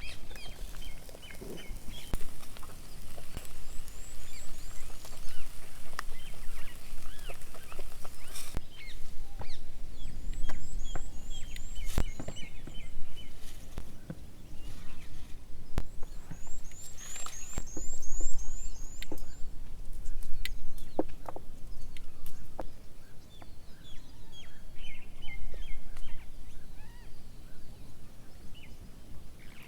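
Wild songbirds singing and calling. A high, thin trill of rapid notes comes three times, several seconds apart, with lower chirps in between. Scattered sharp clicks and knocks are heard among them.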